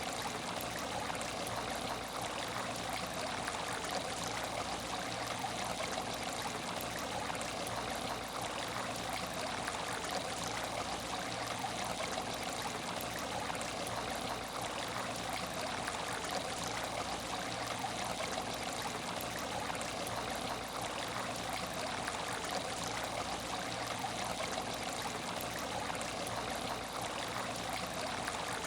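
Water in an empty aquarium tank, trickling steadily and without a break.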